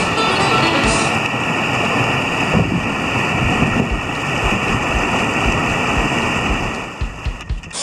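Loud rushing river water over a ledge, with wind buffeting the microphone in low thumps.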